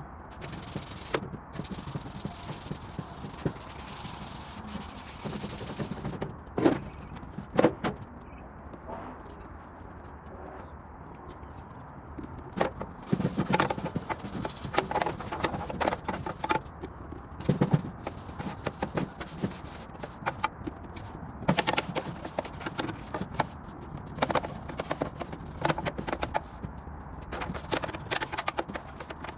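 Workshop clatter of tools and metal parts being handled during restoration work: frequent knocks and clicks, with two louder knocks about seven and eight seconds in and busier clattering through the second half.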